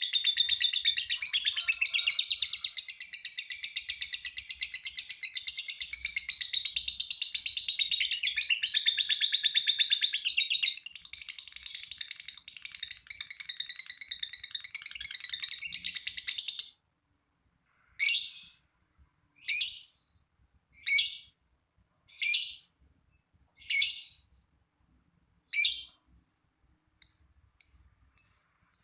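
Lovebird's long 'ngekek' chattering song, a dense unbroken run of high chatter that cuts off suddenly about 17 seconds in. Single sharp calls follow about every second and a half, then quicker short chirps near the end.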